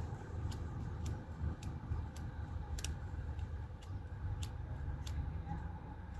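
Regular ticking, a little under two ticks a second, over a steady low rumble.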